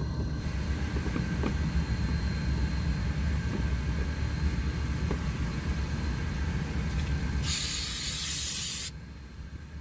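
A steady low rumble of something running throughout. Near the end, a loud spraying hiss lasts about a second and a half and cuts off suddenly.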